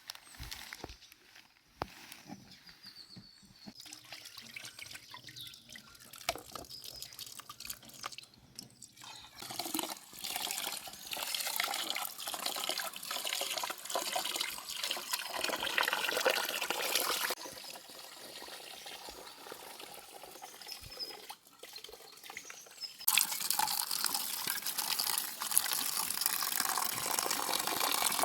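Water running and splashing, with dripping. A few faint clicks and knocks come first. The water starts about ten seconds in, eases off for a few seconds past the middle, then runs harder near the end.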